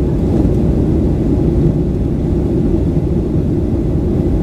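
Steady low rumble inside the cabin of a Boeing 737-900: its CFM56-7B jet engines and the airflow heard through the fuselage, with no sudden changes.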